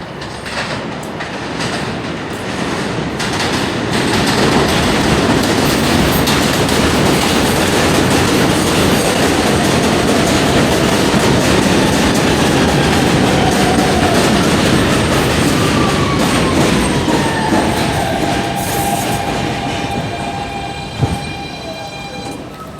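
New York City subway train running past close by: the rumble and clatter of its wheels on the rails build up and stay loud for most of the stretch, then ease off. Near the end a whine falls in pitch and settles into steady tones.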